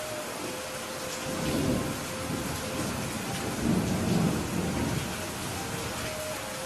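Steady rain with thunder rumbling, the low rumble swelling twice, about a second and a half in and again around four seconds in.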